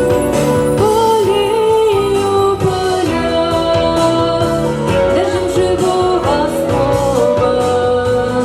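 Music: a woman singing over an instrumental band backing, holding long wavering notes.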